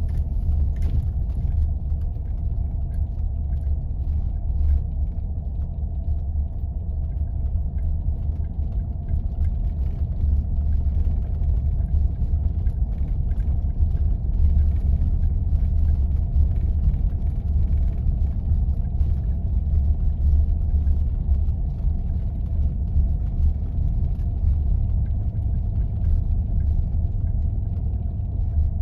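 Steady low rumble of a 4x4 being driven on snowy roads, with faint scattered ticks and rattles over it.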